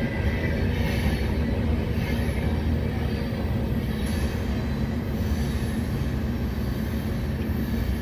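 Herzog ballast hopper cars of a freight train rolling past on the rails: a steady rumble of wheels on track with a faint high wheel squeal.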